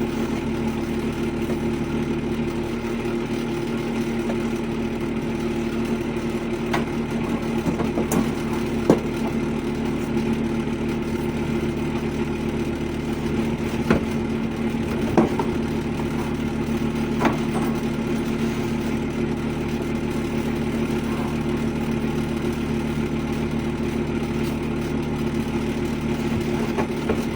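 Steady hum of running machinery, holding an even pitch throughout, with a few sharp clicks or knocks from work going on.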